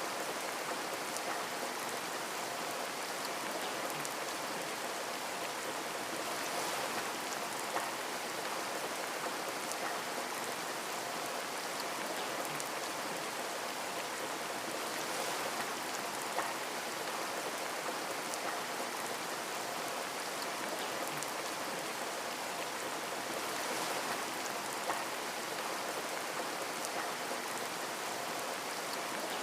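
Steady rain, with the patter of individual drops on a window pane heard as scattered small clicks over a constant hiss.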